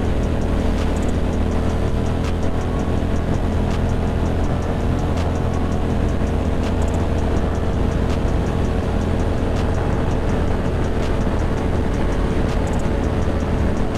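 Ducati Monster 620's air-cooled V-twin engine running steadily while the motorcycle cruises at an even speed.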